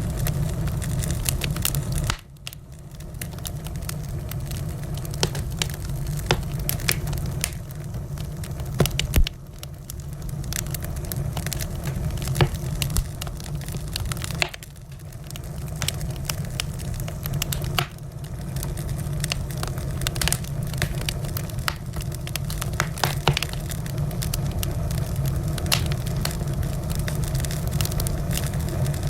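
Wood fire burning in a fireplace: a steady low rumble of flames with frequent sharp crackles and pops. The rumble drops away suddenly a few times and swells back over a second or two.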